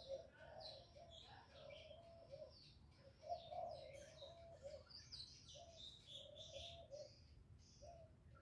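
Birds calling: a series of short, low repeated notes with many higher chirps and twitters over them, all faint.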